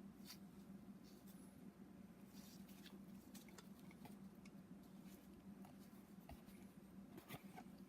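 Near silence over a steady low hum, with scattered faint irregular clicks and ticks from hand tools being handled on the connecting rod bolts while a torque-angle gauge is set up.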